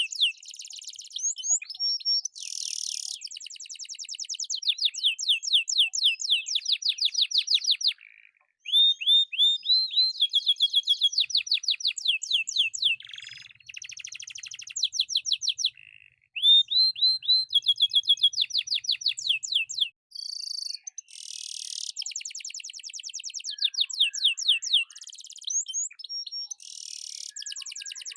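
Domestic canary singing a long song of fast, high trills and rolls: rapidly repeated notes in phrases, broken by short pauses about 8, 16 and 20 seconds in.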